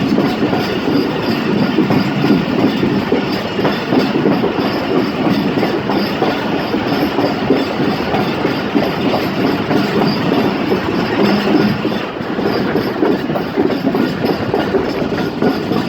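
A train running along the track: a steady, loud rumble of wheels on the rails with a rapid clickety-clack.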